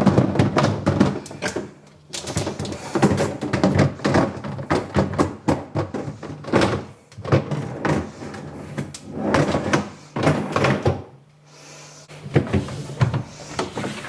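Refrigerator shelves, drawers and inserts being handled and slotted back into the fridge: a busy run of plastic knocks and clatters, with a short lull about eleven seconds in.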